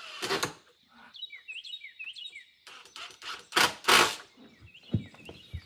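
A songbird chirping: a quick run of short, repeated chirps about a second in, and a few more near the end. About three and a half seconds in come two loud brushing, scuffing noises, with a single knock a second later.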